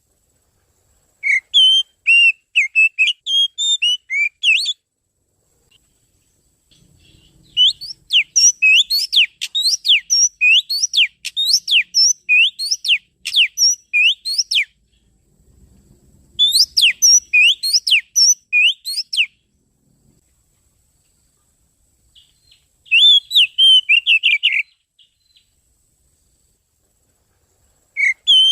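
Oriental magpie-robin (kacer) singing: four bursts of rapid, sweeping whistled notes separated by pauses of a couple of seconds, the longest burst lasting about seven seconds.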